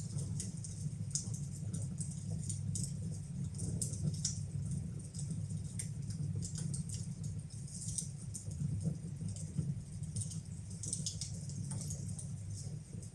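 Wood fire burning in a fireplace, with frequent irregular snaps and crackles from the burning logs over a steady low rumble.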